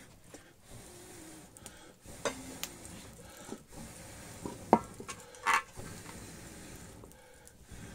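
Wood fire in a fireplace being stoked: scattered knocks of wood being handled, the loudest a little under five seconds in, and a short ringing clank just after.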